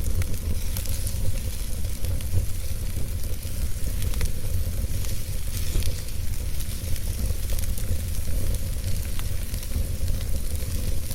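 Wood fire burning in a fireplace: a steady low rumble and hiss of flame with scattered sharp crackles and pops from the burning wood.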